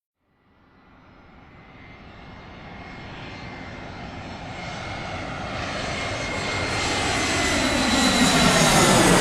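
Airplane approaching: its engine fades in from silence about half a second in and grows steadily louder, with a thin steady whine over the rush, nearly at its loudest by the end.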